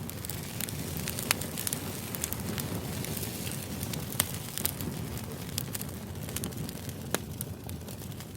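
Crackling fire ambience: a steady low rush with irregular sharp pops and snaps.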